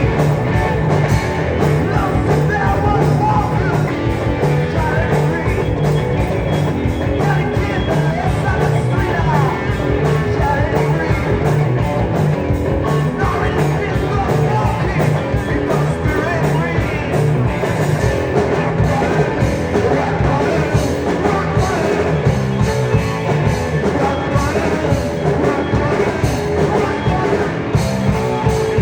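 Live rock band playing a song, with a voice singing over the band.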